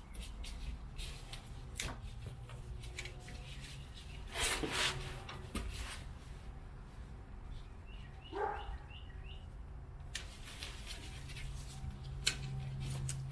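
Scattered clicks and rattles of hand work, louder about four and a half seconds in, and a dog's single short bark about eight and a half seconds in, over a steady low hum.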